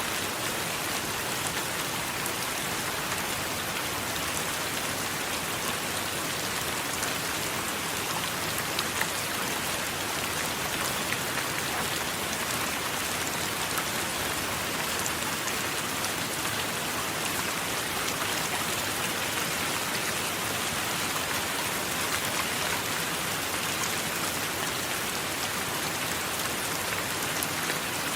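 Steady heavy rain, a dense even hiss with many small drop ticks throughout and no thunder.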